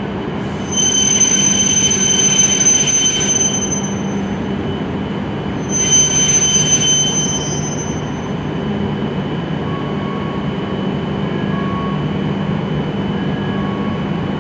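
E7-series Shinkansen train running slowly along the platform with a steady low hum, and two high-pitched squeals, the first about a second in lasting roughly three seconds and the second about six seconds in.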